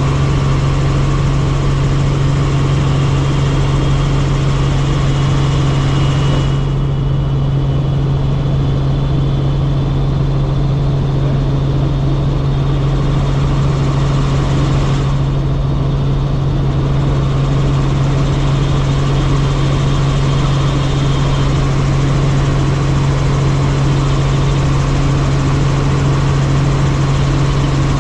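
Helicopter in flight: a steady drone of rotor and turbine, with a strong low hum, heard from inside the cabin.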